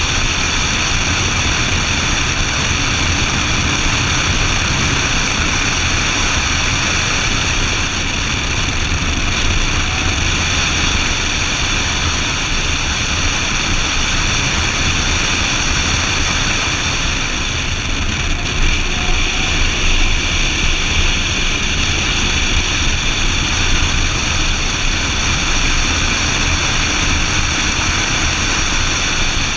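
BMW Z4 M Roadster's S54 inline-six running hard at speed on track, mixed with heavy wind and road noise. The sound is loud and steady, with no clear rise or fall in pitch.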